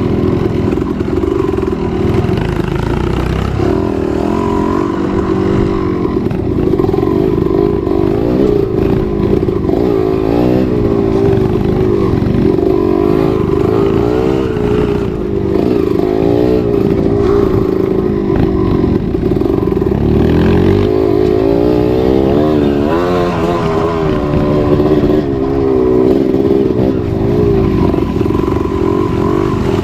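Trail motorcycle engine running under load, its pitch rising and falling again and again as the throttle is opened and closed.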